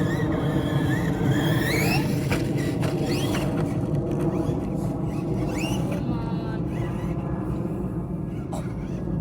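Electric motor of a Losi Grave Digger RC monster truck on a 3S battery, whining up in pitch several times as the throttle is given, over a steady low drone.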